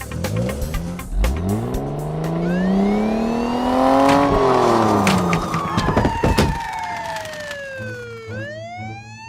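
Cartoon car engine sound effect revving up over about three seconds and dropping back down. A siren-like wail then glides down and swoops back up near the end, over background music.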